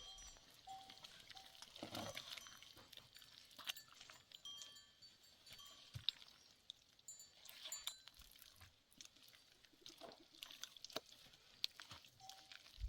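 Faint, scattered tinkling of small livestock bells on goats or sheep. A short run of soft, evenly spaced low hoots comes just after the start and again near the end.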